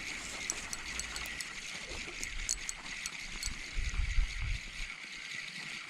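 Faint irregular ticks and clicks, closest together in the first second and a half, over a steady hiss while a hooked trout is played on a light spinning outfit, with a low wind rumble on the microphone about four seconds in.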